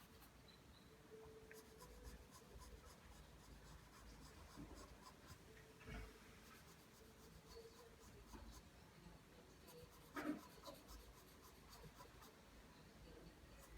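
Graphite pencil drawing lines on paper: faint, steady scratching strokes, with a soft knock about six seconds in and a louder one near ten seconds.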